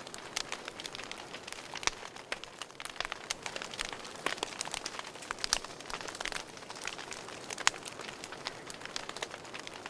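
Wood fire crackling in a fireplace: irregular sharp pops and snaps, several a second, over a soft steady hiss of burning. A louder single pop stands out about two thirds of the way through.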